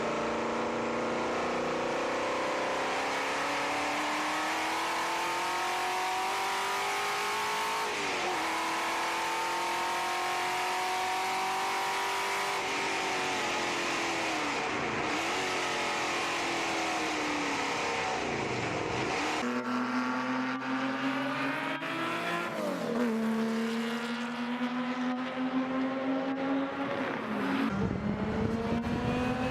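Sports car engine accelerating hard through the gears: its pitch climbs steadily and drops back at each of several gear changes. About two-thirds of the way through the sound changes abruptly, as if to another recording, and more upshifts follow.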